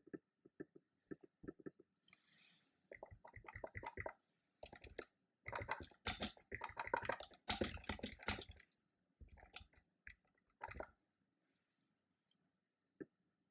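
Typing on a computer keyboard: rapid keystroke clicks in irregular bursts, thickest in the middle and stopping about eleven seconds in, with a single keystroke near the end. A brief soft rustle about two seconds in.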